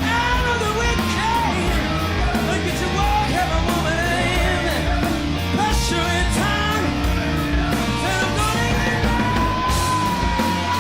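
A hard rock band playing live, with driving drums, electric guitar and a male lead singer; a long high note is held near the end.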